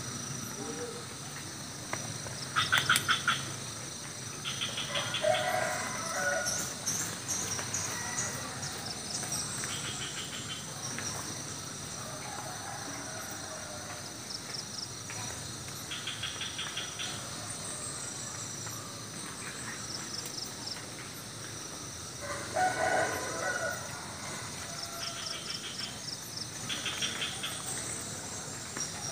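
Village morning ambience: birds give short, rapid trilled calls several times, and a rooster crows twice, the louder crow about two-thirds of the way through, over a steady high chirring of crickets.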